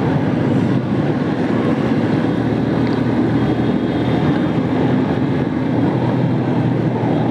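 Yamaha FZS V3 motorcycle's single-cylinder engine running steadily under way, with wind noise on the microphone.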